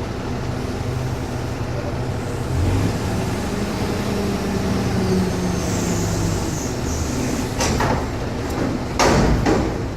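A vehicle's engine running with the drone rising about three seconds in, then loud metallic clanks and rattles, once near eight seconds and a louder bunch about nine seconds in.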